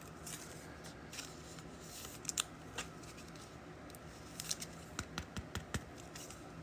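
Trading cards and packs being handled and sorted by hand: scattered light clicks and snaps, more of them in the second half.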